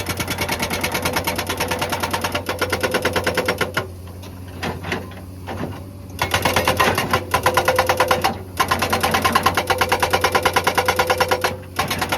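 Hydraulic rock breaker on a Komatsu excavator hammering rock in rapid, even blows, over the steady hum of the excavator's engine. The hammering stops for about two seconds roughly four seconds in, then pauses briefly twice more.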